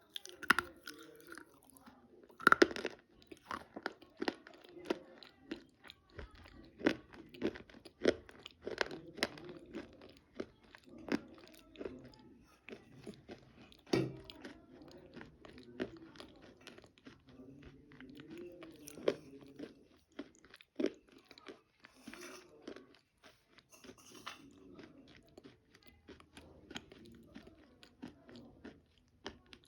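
Close-up crunchy biting and chewing of chalk: many sharp crunches in quick succession, loudest about two and a half seconds in, thinning out to softer, scattered chews in the second half.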